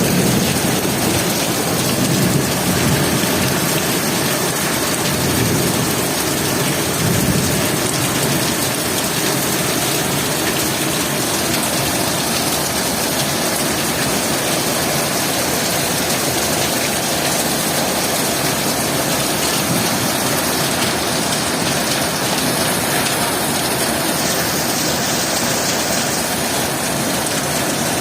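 Heavy rain falling steadily in a continuous dense hiss, with a few low rumbling swells in the first several seconds.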